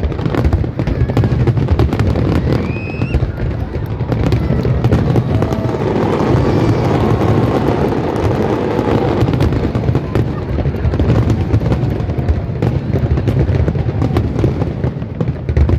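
Aerial fireworks display: a dense, continuous run of bangs and crackling from shells bursting overhead, over a heavy low rumble.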